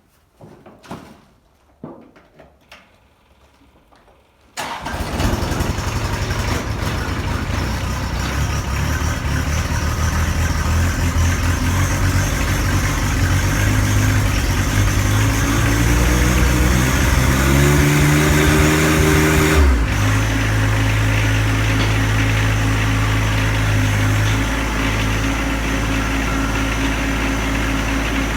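A few faint clicks and knocks, then a John Deere 1025R compact tractor's three-cylinder diesel engine starts about five seconds in and keeps running. Its pitch climbs steadily as it is throttled up, then holds at a steady higher speed.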